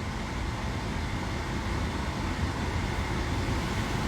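Steady low rumble with an even hiss, like vehicle noise heard from inside a car.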